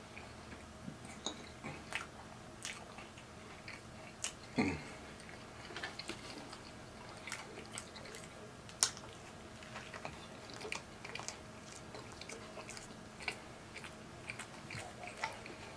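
Close-up chewing and biting of a Subway footlong sub on a soft white roll: wet mouth clicks and smacks scattered throughout. About four and a half seconds in there is a short hum that falls in pitch.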